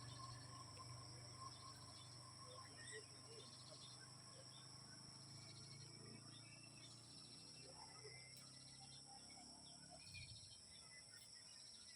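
Near silence: a faint, steady high-pitched insect drone, as of crickets, with a few faint scattered chirps.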